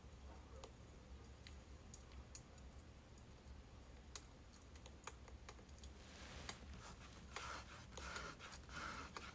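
Faint crackling of burning birch logs: sparse single sharp pops. From about six seconds in, denser irregular rustling and scratching comes in over it.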